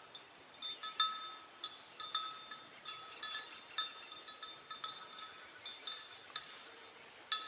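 A small metal bell clanking irregularly, about two strokes a second, each ringing at the same few pitches, with a louder stroke near the end.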